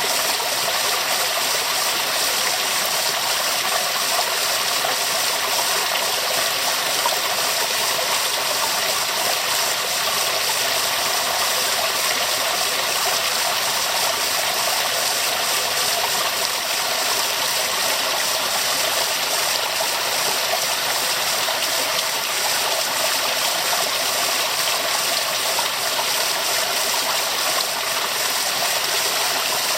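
Waterfall: water falling and rushing in a steady hiss, mostly high in pitch with little low rumble.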